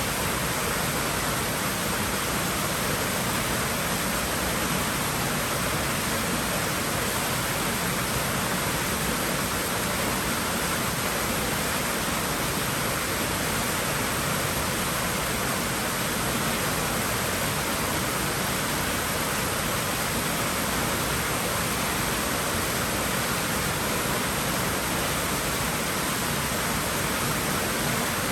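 Water running steadily in a swimming pool: an even hiss with no breaks, splashes or changes.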